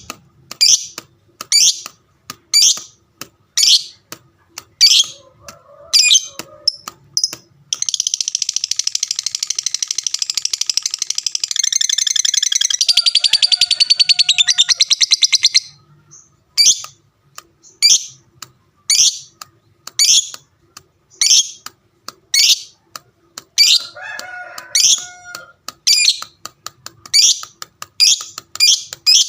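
Lovebird calling with sharp, high chirps about once a second, then, about eight seconds in, a long rapid chattering trill (the 'ngekek') that runs for about eight seconds before breaking back into single chirps. The chirps come faster near the end.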